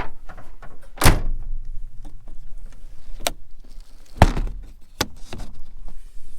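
Several sharp thuds and clunks, the loudest about a second in and another a little after four seconds, among smaller knocks and rattles: doors and gear being handled at a pickup truck with a topper.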